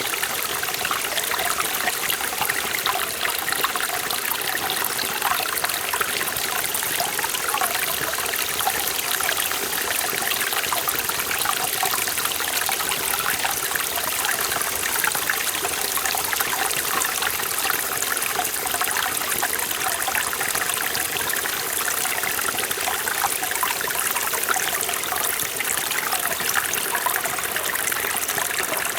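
Forest valley stream running over rocks, a steady splashing and burbling of water.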